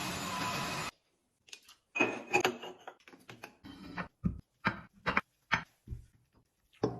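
A steady sound cuts off suddenly about a second in, and after a short pause comes a run of irregular light clicks and knocks, about a dozen in five seconds.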